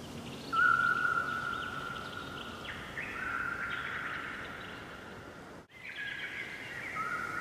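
Songbirds singing at dawn, several overlapping clear whistled notes, some held level for a second or more. The sound cuts out for a moment about two-thirds of the way in.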